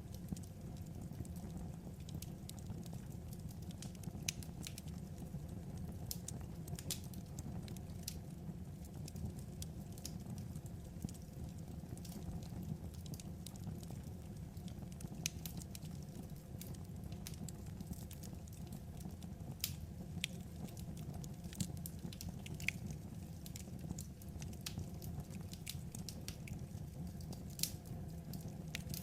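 Wood fire crackling: scattered, irregular sharp pops over a steady low rumble.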